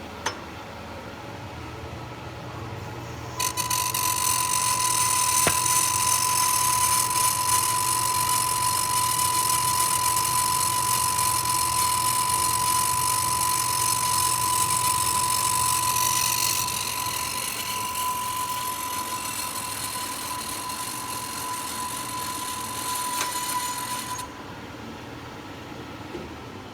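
Metal lathe turning a steel insert: the machine hums, then a few seconds in the cutting tool bites into the steel and gives a loud, steady high whine that stops abruptly a few seconds before the end as the cut finishes.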